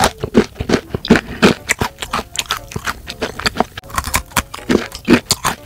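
A person biting and chewing a pistachio-coated oranda, a crisp puffed-grain snack bar: a fast, irregular run of sharp crunches, several each second.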